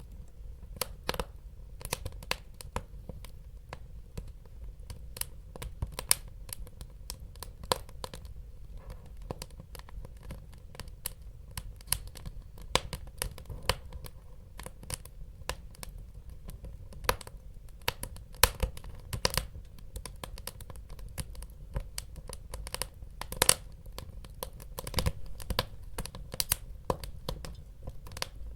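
Wood fire burning in a fireplace: irregular sharp crackles and pops, dozens of them scattered throughout, over a low steady rumble of the flames.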